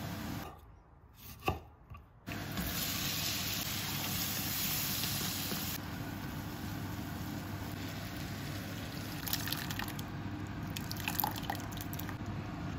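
Onions, spices and tomatoes sizzling in hot oil in a wok, with a short dip about half a second in and a louder, brighter stretch just after. Near the end a wooden spatula clicks and scrapes against the pan.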